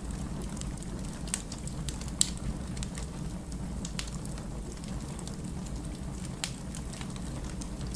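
Wood fire burning in a fireplace, with irregular crackles and pops over a steady low rumble; the sharpest pop comes about two seconds in.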